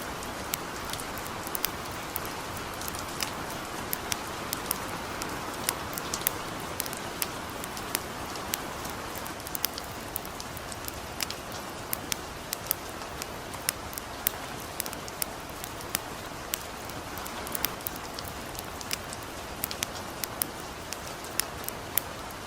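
Light rain falling steadily, with a campfire crackling: sharp, irregular pops, several a second, over the even patter.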